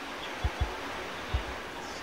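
Steady background hiss beside a commuter train standing at the platform with its doors open. Three short low thumps, two close together about half a second in and one more just past a second.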